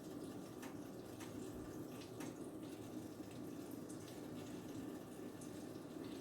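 Pancake batter cooking in a hot pan: a faint, steady sizzle with scattered small crackles and pops over a low kitchen hum.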